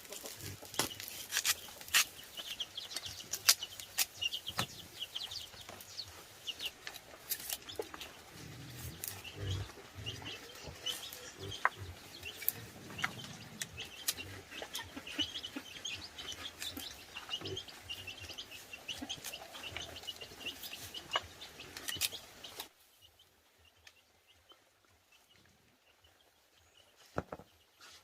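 Chickens clucking and chirping, with many sharp clicks and knocks mixed in. The sound cuts off abruptly a few seconds before the end, leaving only faint background.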